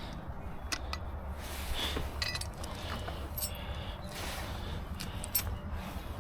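Scattered light metallic clinks and clicks of hand tools and brake parts being handled, the sharpest near the end, over a steady low rumble.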